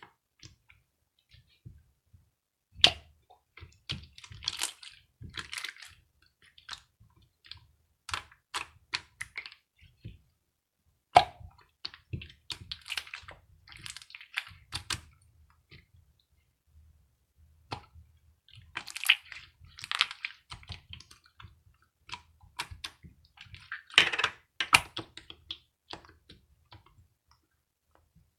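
Slime being squeezed and pressed by hand, making irregular clicks and crackly pops in clusters, with a few sharper snaps.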